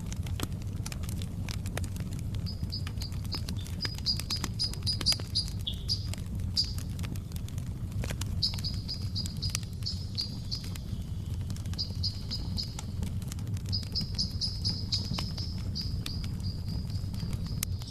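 Wood fire crackling: a steady low rumble with many small pops and snaps throughout. A bird chirps over it in several short, rapid, high trills.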